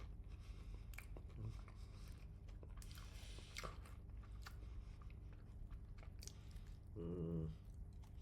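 Close-up chewing and crunching of crispy fried chicken skin, with irregular crackles and bites. About seven seconds in there is a short hummed 'mm' from the eater.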